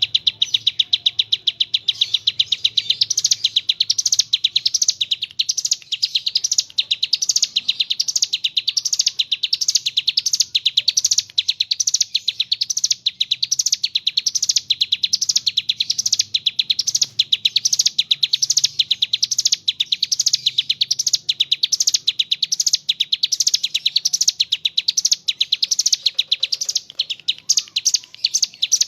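Ciblek gunung (a prinia) singing a long, unbroken rapid 'ngebren' trill of high notes that swell about twice a second.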